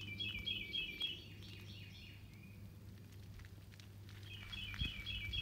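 A songbird singing a quick phrase of rapidly repeated high notes, heard twice: at the start and again about four seconds in.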